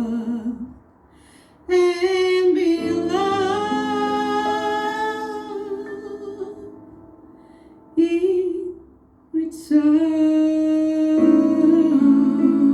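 A woman singing slow, long-held notes with wide vibrato over soft instrumental accompaniment, in phrases broken by short pauses: one about a second in and another about two-thirds of the way through.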